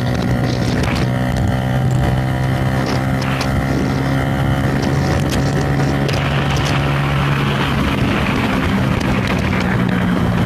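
Motorcycle engine running at a steady speed while riding, with wind noise on the microphone.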